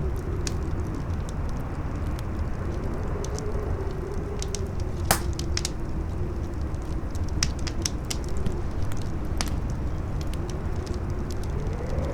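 Campfire crackling with scattered sharp pops, the loudest about five seconds in, over a howling wind whose pitch slowly rises and falls, with a steady low rumble of wind beneath.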